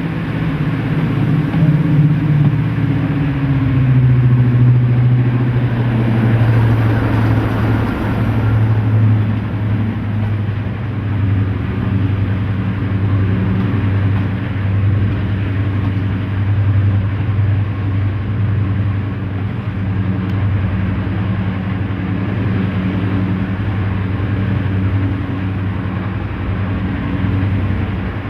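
Class 55 Deltic locomotive's twin Napier Deltic two-stroke diesel engines running hard. The engine note drops slightly a few seconds in, then holds steady.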